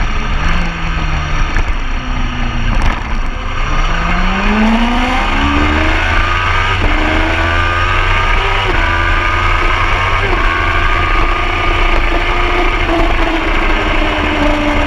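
Superbike engine on a race track, low at first, then accelerating hard with its pitch climbing in steps through several gear changes before holding a high, nearly steady pitch.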